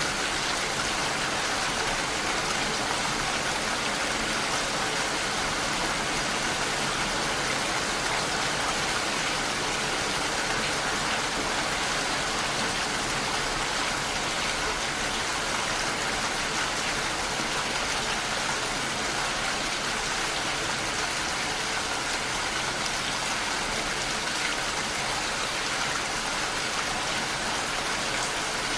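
Steady rainfall, an even hiss of falling rain with no single drops standing out.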